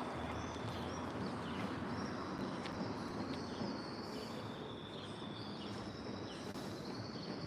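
Steady outdoor background noise with faint bird calls chirping throughout.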